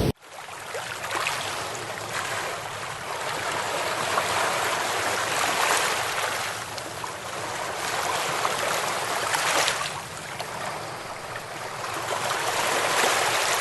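Floodwater rushing and churning: a continuous watery rush that swells and eases.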